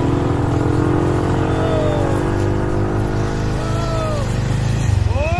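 ATV (four-wheeler) engine running at a steady pace while riding on a trail. A few short rising-and-falling calls from a voice come over it, the strongest near the end.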